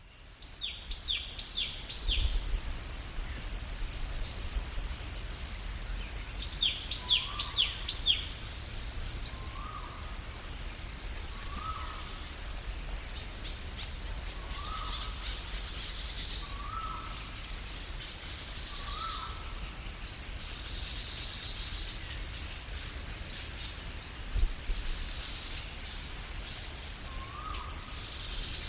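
Forest-edge ambience: a steady high insect drone, with a short bird call repeated every second and a half or so and a few quick falling bird chirps in the first several seconds.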